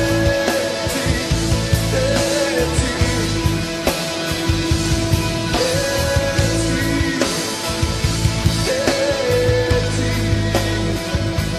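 A band playing a rock-style worship song instrumentally: drums keeping a steady beat under bass and electric guitar, with a gliding melodic lead line.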